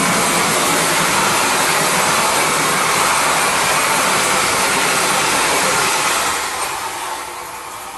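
Passenger coaches of an express train rushing past at speed: a loud, steady roar of wheels on rails and wind, dying away from about six seconds in.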